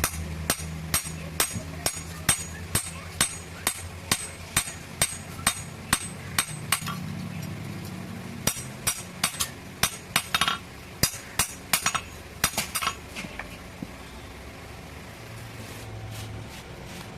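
Blacksmith's hand hammer striking metal with a bright ringing note, about two blows a second in a steady rhythm. After a short pause comes a quicker, more uneven run of blows, which stops a few seconds before the end.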